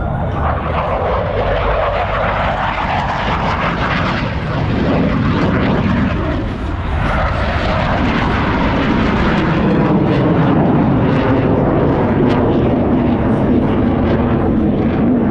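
Loud roar of F/A-18 Super Hornet jets flying the display, the sound sinking in pitch over the first few seconds and dipping briefly about six seconds in.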